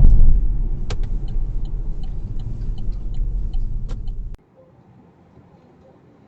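Low rumble of a car's road and engine noise picked up by a dash cam, with faint small clicks over it, fading slowly and then cutting off suddenly about four seconds in.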